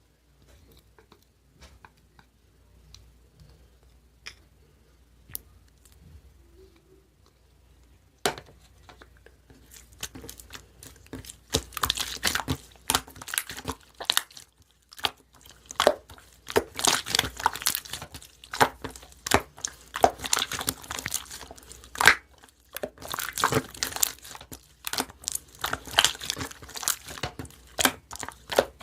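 Marbled slime being played with by hand: a dense crackle of sticky pops and clicks as it is squeezed and stretched. It is faint for the first several seconds and turns loud about eight seconds in.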